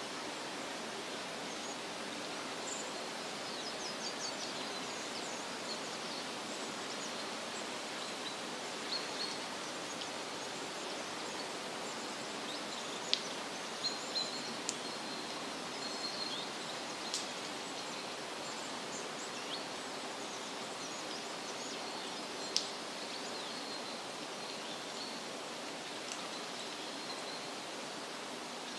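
Forest ambience: a steady rushing hiss with small birds chirping faintly and high, plus a few sharp single chips in the middle stretch.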